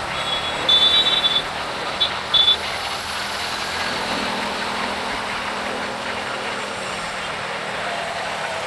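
Steady road and wind noise of a motorcycle riding through city traffic. A high-pitched vehicle horn sounds three times in the first few seconds: one longer honk, then two short ones.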